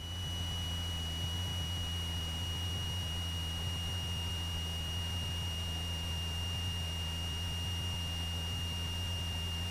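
Cessna 172's stall warning horn sounding one steady high tone, held unbroken, over the low, steady drone of the engine at reduced power: the airplane is slowed to the edge of the stall in slow flight.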